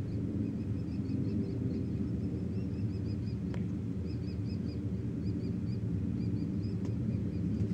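Shrill bird calls in quick runs of three to five short notes, repeated over and over: the screeching of a falcon being mobbed by two small birds. A steady low rumble runs underneath.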